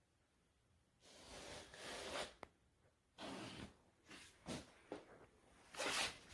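Several short, faint bursts of rustling, scraping handling noise, starting about a second in, with a sharp click partway through.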